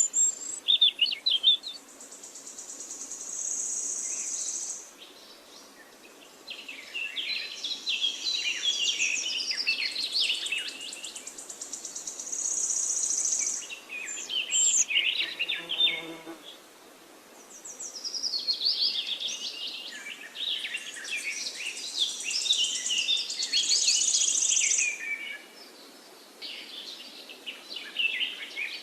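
Forest songbirds singing, several chirping, warbling phrases overlapping. Three times, a high buzzing trill sounds for a few seconds.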